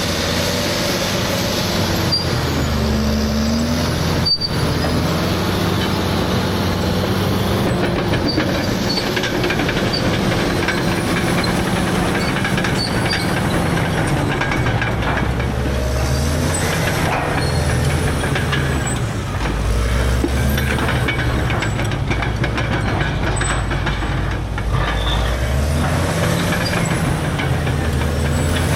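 Caterpillar D6R bulldozer's C9 diesel engine running under load, its pitch rising and falling several times as the dozer pushes, with a sharp knock about four seconds in.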